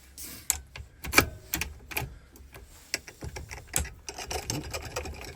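Irregular small metallic clicks and taps of keys and Ford ignition lock parts being handled and fitted, with two sharper clicks about a second in and near four seconds, and a quicker run of small clicks near the end.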